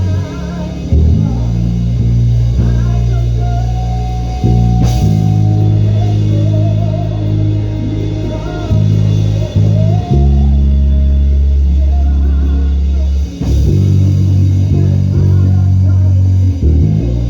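Live church band music: a bass guitar holds long, loud low notes that change every second or two, under guitar and a drum kit, with a wavering melody line above.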